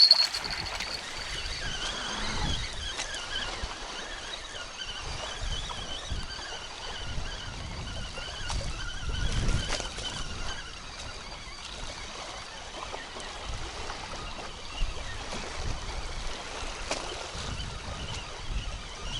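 Wind buffeting the microphone in uneven low gusts, with water lapping and trickling.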